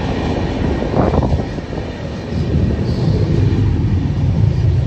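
Indian Railways express passenger train running at speed, heard at an open coach door: a steady rumble of wheels on track with rushing air, settling to a lower, steadier rumble after about a second and a half.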